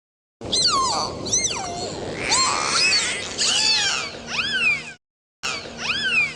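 Repeated high-pitched meowing: a quick run of short calls that rise and fall in pitch, broken off abruptly about five seconds in, then a few more calls.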